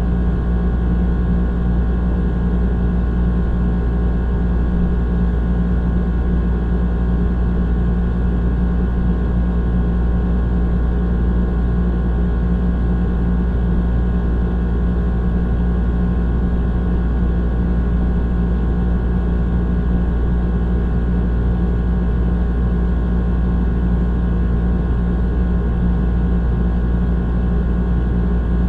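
Old air conditioner running steadily: a loud, unchanging low hum with a droning tone above it.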